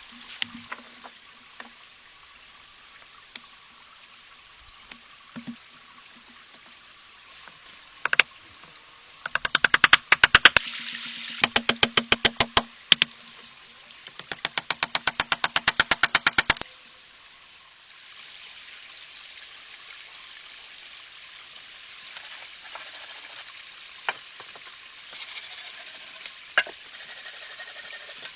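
Rapid, even knocks of a knife chopping on a board, in three quick runs in the middle, with a few single knocks before and after, over a steady hiss.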